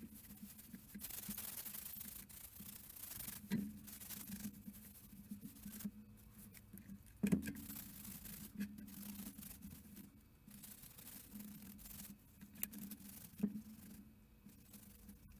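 Rubbing and scraping handling noises over a steady low hum, broken by three sharp knocks, the loudest about halfway through.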